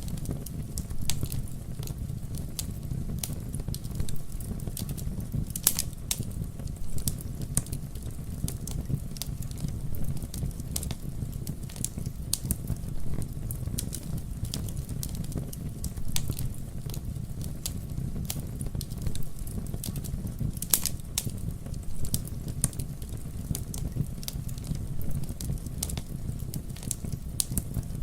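Wood fire burning with a steady low rumble and frequent small crackles and pops, two of them louder, about six seconds in and near twenty-one seconds.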